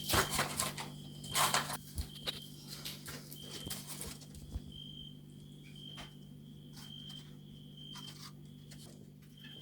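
A cricket chirping, short high chirps repeated about once a second, with rustling and handling noises in the first two seconds.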